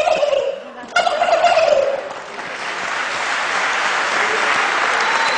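A man imitating a male turkey gobbling with his voice, in two bursts each falling in pitch. About two seconds in, an audience breaks into steady applause.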